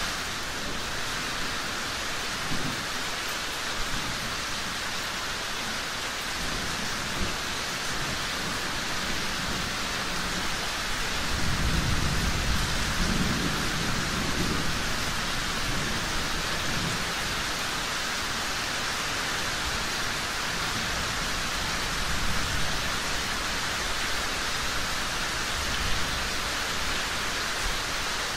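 Steady rain falling. A low rumble of thunder swells about eleven seconds in and dies away a few seconds later.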